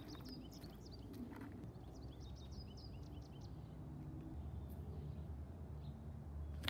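A small bird chirping in quick, high, repeated notes for the first three seconds, over a faint low rumble of outdoor background noise that grows louder in the second half.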